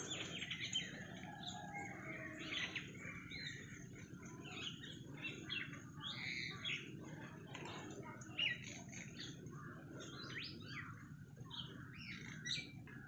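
Several birds chirping and calling in the trees: a busy mix of short, overlapping chirps and call notes, some in quick runs.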